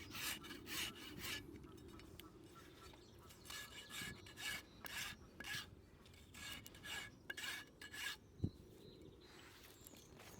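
Farrier's rasp being drawn across a horse's hoof, in runs of several quick scraping strokes separated by short pauses. A single short knock comes near the end.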